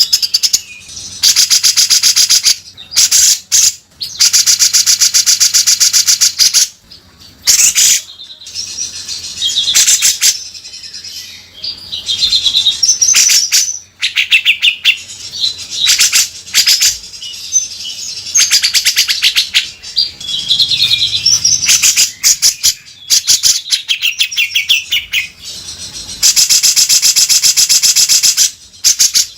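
Grey-cheeked bulbul (cucak jenggot) singing loudly in its harsh 'beset' style: long rattling buzzes of one to three seconds alternate with short whistled phrases.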